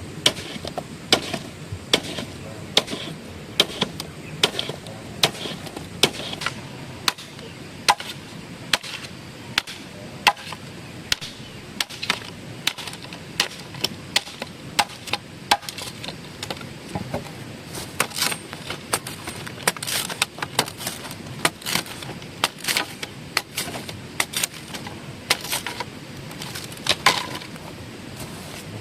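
Repeated chopping blows of a hand tool, about two a second, slightly irregular, each a sharp knock.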